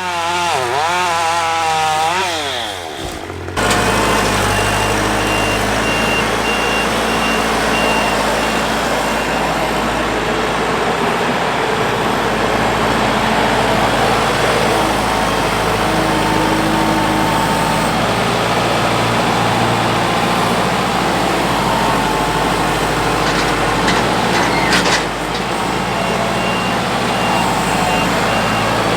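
A heavy vehicle's engine running steadily, with a reversing alarm beeping in an even rhythm for several seconds after the start and again near the end. Over the first few seconds there are wavering pitched tones, then the sound cuts over suddenly to the engine.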